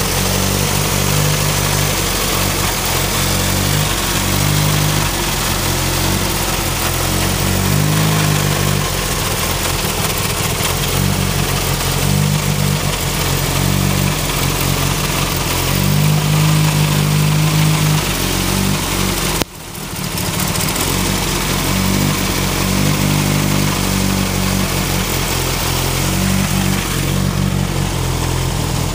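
Turbocharged Ford Focus four-cylinder engine running with a bad, uneven idle, the sign of a misfire that a new coil pack has not cured; the owner suspects the plug wires or the cylinder 2 fuel injector. The sound drops out for a moment about two-thirds of the way through.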